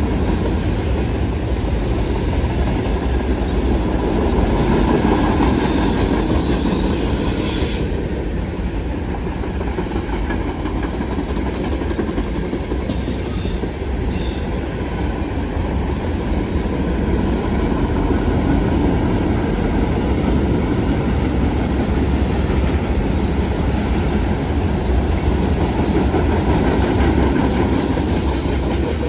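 Train cars rolling past on the track: a steady rumble of steel wheels on rail, swelling slightly and easing as the cars go by.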